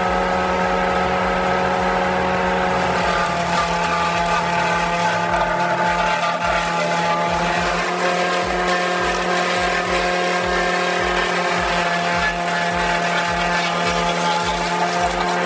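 A heavy machine running steadily, with an even engine hum and a regular low thud about twice a second.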